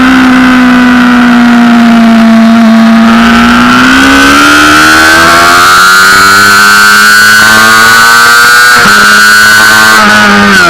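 Honda CBR600RR's 600 cc inline-four engine at speed on track. It holds steady revs for about three seconds, then pulls hard with rising pitch, with quick upshifts about nine seconds in and again near the end.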